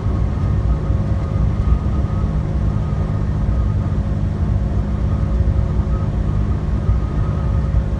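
Truck cab interior while driving: the engine and tyres make a steady low rumble, with a constant hum above it.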